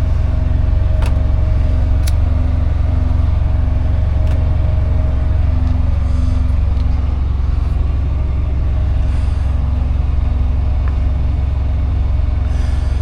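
Diesel engine running steadily, heard inside a semi truck's cab: a loud, even low drone with a faint pulsing hum over it. A couple of faint clicks come early on.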